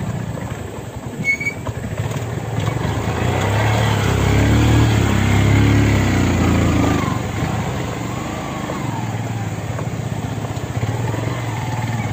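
Motorcycle engine running and revving, loudest from about four to seven seconds in, then easing off.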